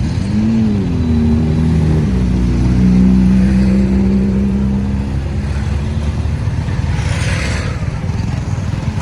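Road traffic: a vehicle engine whose note rises and falls, drops about two seconds in, then holds steady before fading, over a constant low rumble. A brief hiss comes about seven seconds in.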